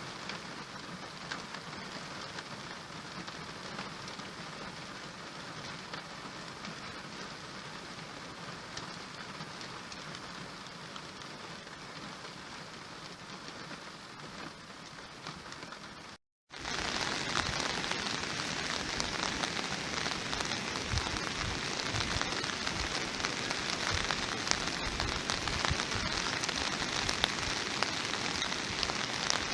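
Steady rain falling on a surface, a dense patter of drops. About 16 seconds in it cuts out briefly, then comes back louder and brighter, with occasional heavier drops landing close by.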